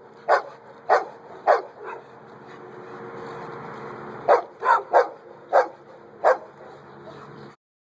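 A dog barking in two runs of short, sharp barks: four in the first two seconds, then five more a couple of seconds later.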